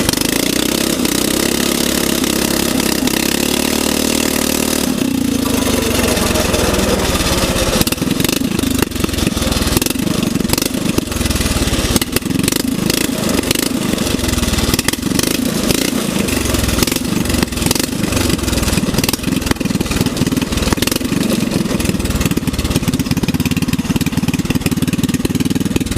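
Small riding-lawnmower engine on a go-kart, running loud. It holds a steady note at first, shifts in pitch about five seconds in, then runs rougher and more unevenly for the rest.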